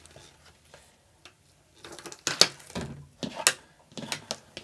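Cloud slime being handled and stretched, giving a run of sharp, irregular clicks and crackles that starts about two seconds in.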